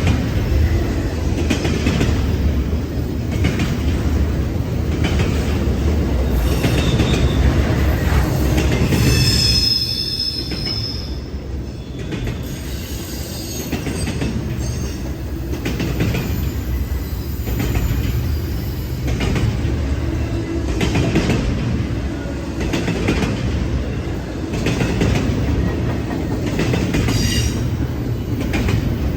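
Norfolk Southern freight train's cars rolling past, wheels clicking over the rail joints, with a brief high wheel squeal about nine seconds in.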